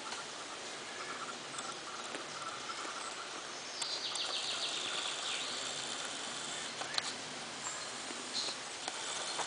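Outdoor ambience with birds calling. About four seconds in, a high, rapid bird trill runs for a second or two, and a short sharp click comes near seven seconds in.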